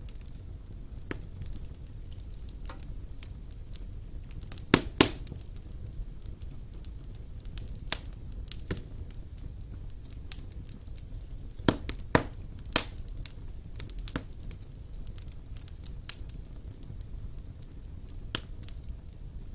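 Wood fire burning in a fireplace: a steady low rumble with irregular sharp crackles and pops, loudest as a pair of pops about five seconds in and a cluster around twelve seconds.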